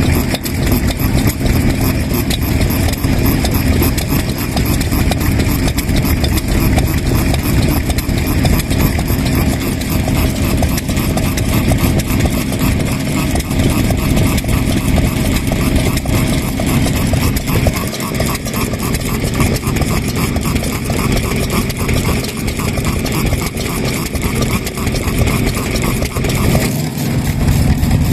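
Vintage Japanese kerosene stationary engines running, with a steady, rapid beat of exhaust thumps; the sound shifts near the end.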